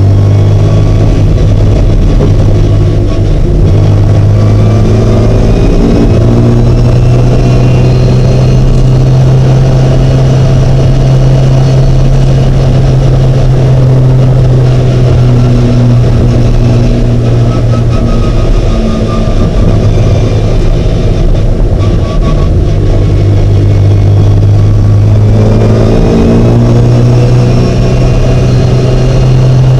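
Mini's engine running loud and continuously under load, its note climbing and falling as the revs change, with a climbing sweep near the end. The owner reports an intermittent misfire on this car.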